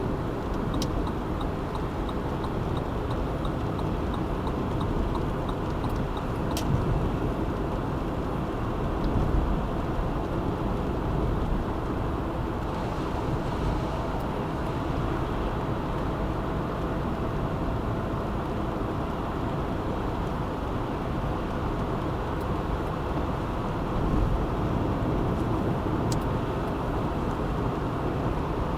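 Car driving in city traffic: steady road and engine noise, with a run of quick, light, evenly spaced ticks for the first several seconds.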